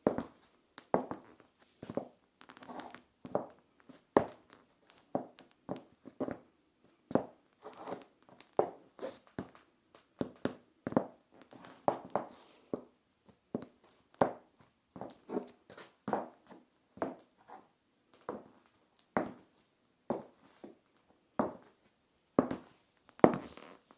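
Stiletto high heels with plastic heel tips clicking on a tiled floor as someone walks, a sharp click with each step at roughly two a second, with a slight echo in a small room.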